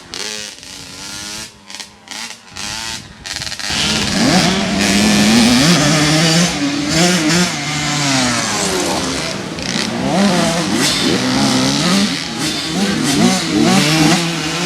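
Several motocross bikes racing, their engines revving up and down with overlapping rising and falling pitches. Quieter and choppy at first, then loud from about four seconds in.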